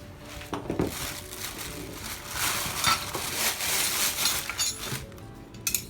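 Saw accessory parts and their packaging being handled, with irregular light clinks and rustling.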